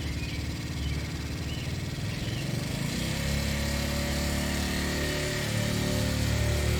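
Small motorcycle engine running with a steady drone, getting louder about three seconds in.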